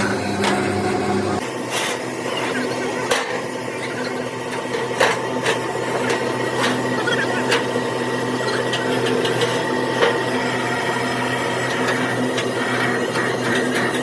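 Hand-tool work on a truck body: continuous scraping and rubbing, broken by a few sharp knocks.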